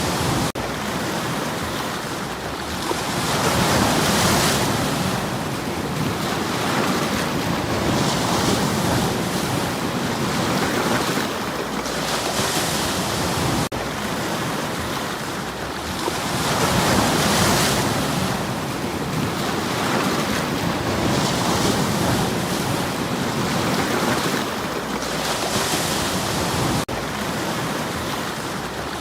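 Sea waves breaking against a stony shore, the surf swelling and washing back about every four to five seconds.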